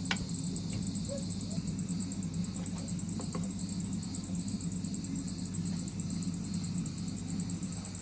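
Crickets chirping in a steady rhythm, about three pulses a second, over a steady low hum.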